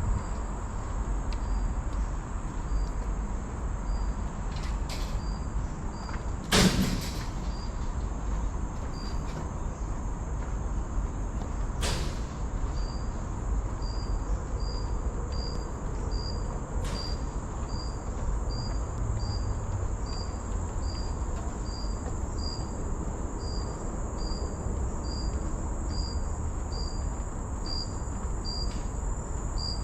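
Insects in tropical forest: a steady high-pitched buzz with a short chirp repeating about twice a second, over a low rumble. A single loud knock comes about six and a half seconds in.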